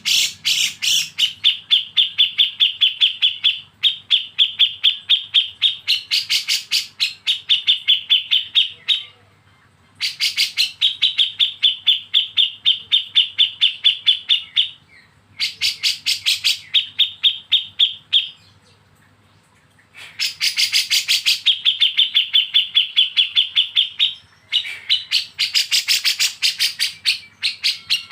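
Bulbul song in the 'besetan' style: rapid, evenly pulsed chattering trills in phrases of three to five seconds, with short pauses between them.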